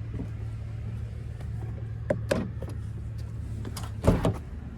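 Knocks and handling noises from the pickup's door and cab as someone climbs into the rear seat of an extended-cab truck, with the loudest thump about four seconds in. A steady low hum runs underneath.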